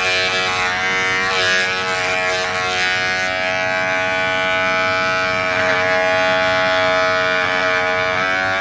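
Small cordless pet mini clipper running with a noisy, steady whine, its pitch wavering slightly now and then.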